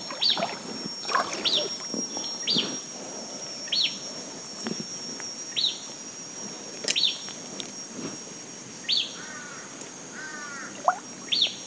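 A bird repeating a short, sharp, high call about once a second over a steady high-pitched insect drone, with a few lower calls near the end.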